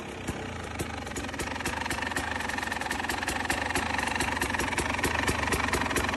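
KTM 300 TPI two-stroke engine idling through a full-system aftermarket exhaust, with sharp, regular popping from the pipe that comes quicker and grows gradually louder.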